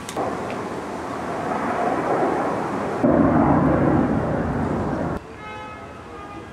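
Loud rushing noise of a passing vehicle, building over the first two seconds, jumping louder about three seconds in and cutting off abruptly just past five seconds.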